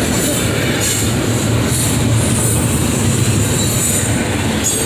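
Train passing at close range: a loud, steady rumble of wheels on the rails.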